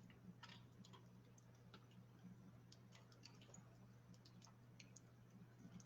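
Faint, irregular crackling and ticking of a wood fire, sparse small pops over a low steady hum.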